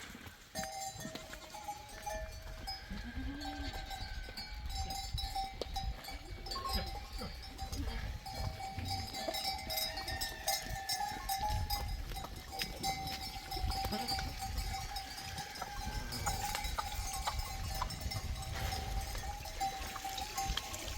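Livestock bells on a flock of goats and sheep ringing on and on as the animals move, with scattered knocks and clatter around them.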